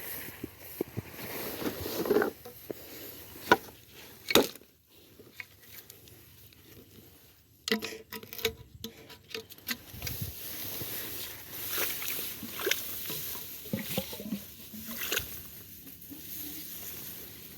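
Scattered knocks, clicks and rustles with footstep-like patter, as of someone walking through wet ground and handling eel traps, over a faint steady high hiss.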